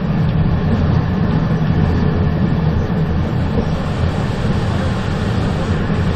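Moving train running steadily: a continuous rumble with rushing noise and no breaks.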